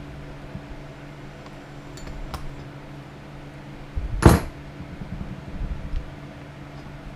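One sharp knock about four seconds in, with a few light clicks and handling noise around it, over a steady low hum.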